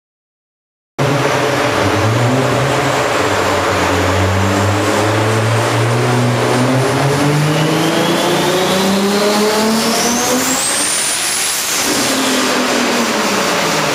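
Heavily modified single-turbo Toyota Supra straight-six under full throttle on a rolling-road dyno, cutting in suddenly about a second in. The engine note climbs steadily through a pull with a thin high whine rising alongside it. Near the end it lifts off and the note falls.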